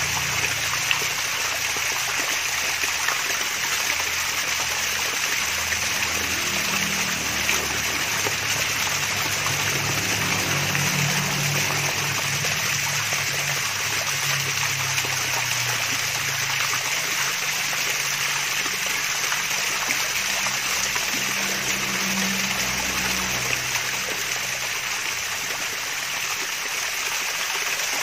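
Water splashing and trickling down a small waterfall, a steady, even babble of running water.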